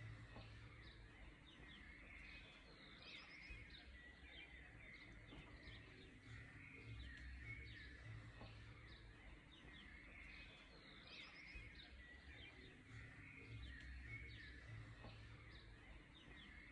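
Faint birdsong, many short chirps from several small birds, over a low steady rumble.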